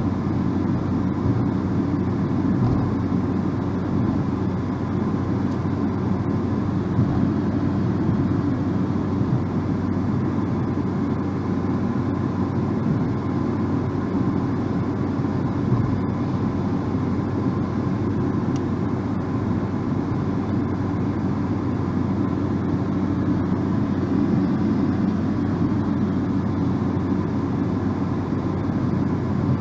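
Steady road noise of a car driving at speed, heard from inside the cabin: a low, even tyre and engine drone with no changes.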